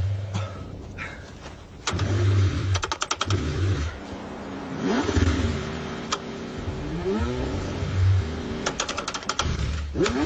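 Car engine cranking on its starter in the cold, struggling to start: two runs of rapid, even cranking pulses a few seconds apart, with uneven engine noise rising and falling between them.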